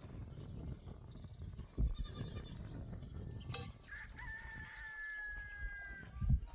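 A rooster crowing once: a single long held note lasting about two seconds, starting about four seconds in and falling slightly in pitch. Before it come faint high chirps, and a couple of sharp knocks are heard.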